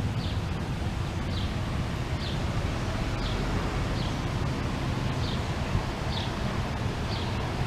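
A bird repeating a short, high, slightly falling call note about once a second, over a steady low rumble of wind.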